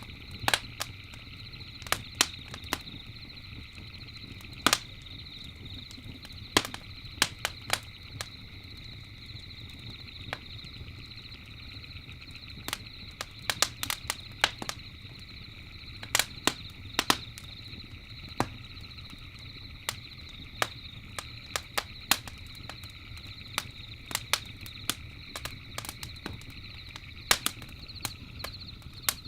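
Campfire crackling: wood popping and snapping at uneven intervals, sometimes several pops in quick succession, over a low steady rumble of the flames. A steady high chirring of night insects runs behind it.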